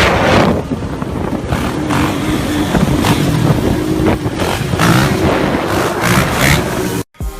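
Dirt bike engines running and revving, the pitch rising and falling; the sound cuts off abruptly near the end.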